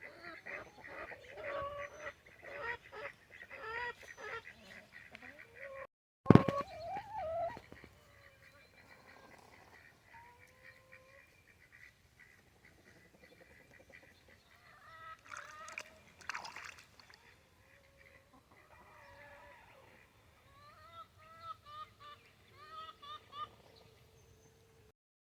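Backyard poultry calling: many short overlapping calls, busiest at first and sparser later, with a run of small rising peeps near the end. A single sharp knock sounds about six seconds in.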